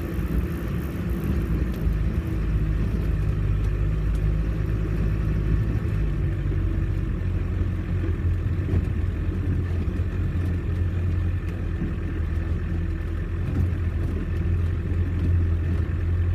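Off-road 4x4's engine running at steady low revs, a constant low drone with little change in pitch.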